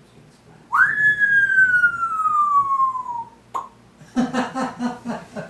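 African grey parrot whistling: one long, loud whistle that jumps up in pitch and then glides slowly down over about two and a half seconds. A short click follows, then a quick run of pulsing, stuttering sounds near the end.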